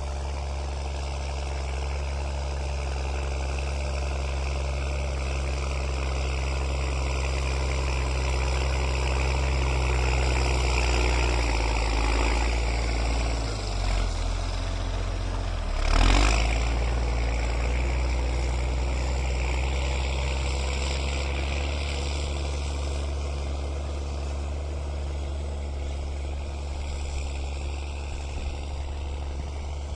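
New Holland TS6.125 tractor's diesel engine running steadily, with one sudden loud clunk about halfway through.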